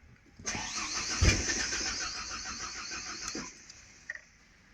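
Truck's starter motor cranking the engine for about three seconds with a steady rhythmic churn, the engine not catching, then cutting off suddenly. It is a no-start: the engine turns over but won't fire.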